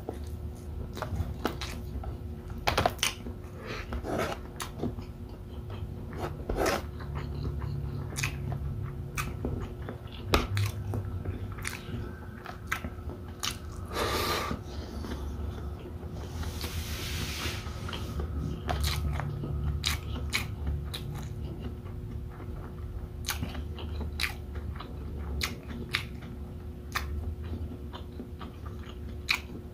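Close-miked eating: a man chewing beef bopis, rice and sausage, with many short, sharp, wet mouth clicks and lip smacks as he chews.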